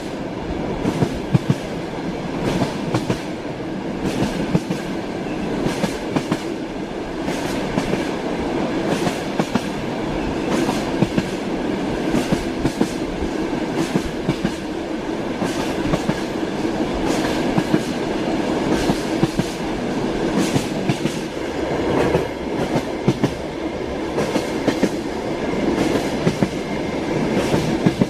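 Passenger train carriage wheels clattering over rail joints while running at speed, a steady rumble broken by repeated sharp clicks and knocks.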